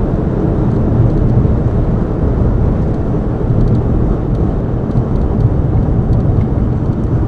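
Car driving at speed, a steady low rumble of road and wind noise heard from inside the cabin.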